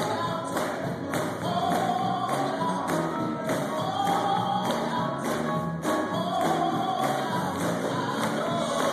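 Gospel music: a group singing long held phrases over a steady percussion beat.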